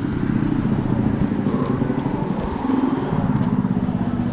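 A motor vehicle engine running with a steady low hum, its pitch shifting slightly partway through.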